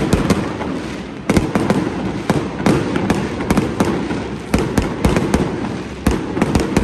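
Fireworks display: aerial shells bursting in quick, irregular succession, about two or three sharp bangs a second over a constant crackle.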